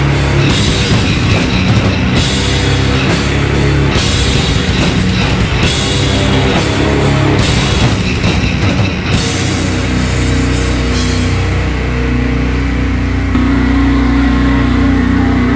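Live heavy metal band playing loud, with distorted guitars, bass and a drum kit. About nine seconds in, the drum strokes stop and a held distorted chord rings on.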